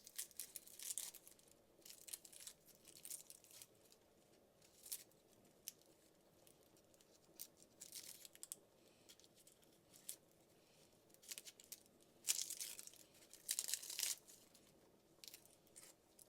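Dry onion skin being peeled off, faint papery tearing and crinkling in short irregular rustles, with two longer tears about twelve and thirteen and a half seconds in.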